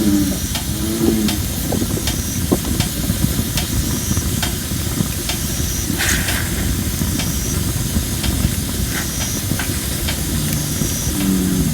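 Campfire of thin, under-dried red robin (Photinia) wood, hissing steadily as moisture steams out of the logs, with scattered crackles and pops. A short high squeak repeats about once a second, and an American bullfrog starts its low call near the end.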